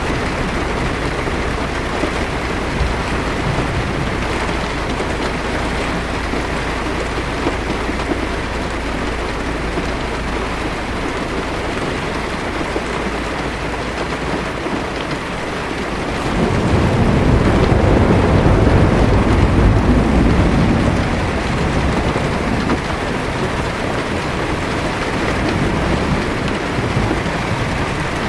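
Heavy rain falling steadily on a car's windshield, heard from inside the car. A low roll of thunder swells a little past halfway and fades after about four seconds.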